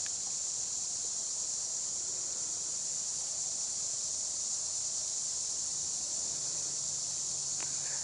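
Steady, high-pitched chorus of crickets.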